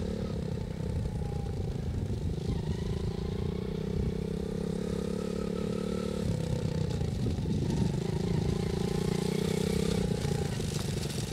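Small dirt bike engine running steadily in gear as it is ridden, its note dipping briefly a little past the middle and then picking up again.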